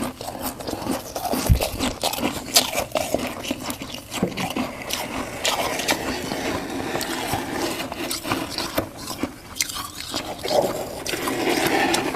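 Close-up crunching of crunchy humidifier frost, a dense, unbroken run of crackles and short crunches.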